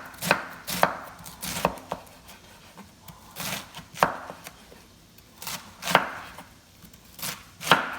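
Knife chopping cabbage on a cutting board: about ten irregular cuts, often in pairs, with pauses between.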